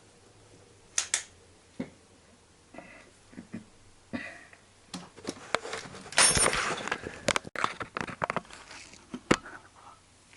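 Scattered clicks and metal knocks of tools and boiler parts being handled during reassembly, with a longer scraping rattle about six seconds in.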